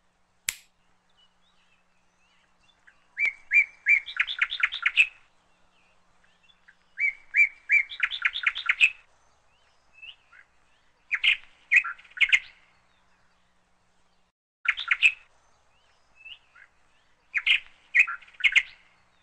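A bird chirping in five short phrases, each a quick run of repeated high notes, spaced a few seconds apart. There is a single sharp click just after the start.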